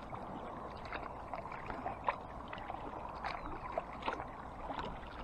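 Canoe paddling on flat calm water: paddles dipping with small irregular splashes and drips, and a few light knocks.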